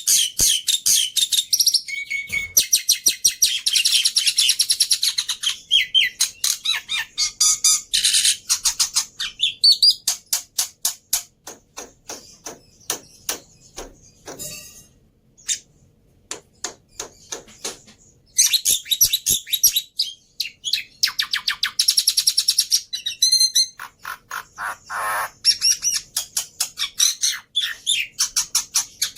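Black-winged myna (jalak putih) singing a fast, varied song of high chirps, whistles and trills. In the middle the song breaks into a run of sharp clicks, two or three a second, before the chattering phrases return.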